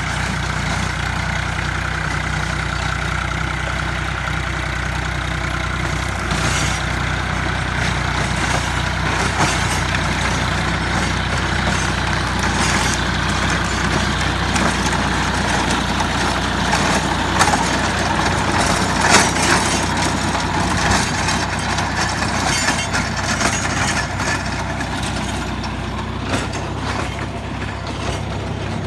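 Tractor diesel engine running steadily, driving a rotary tiller (rotavator) through the ground, with a steady churning noise and scattered sharp knocks and crackles from about six seconds in.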